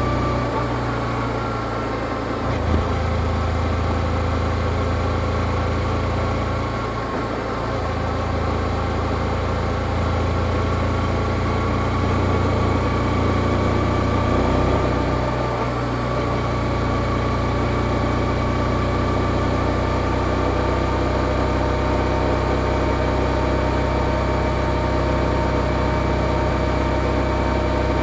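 Yamaha XSR155's single-cylinder engine with its stock exhaust, running steadily at an even pitch, dipping slightly in the first couple of seconds. A short knock about three seconds in.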